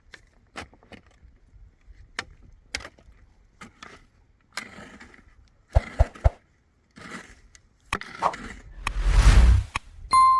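Hand building work: scattered knocks and scrapes of materials being handled, with three heavy thuds about six seconds in and a loud rushing scrape near the end.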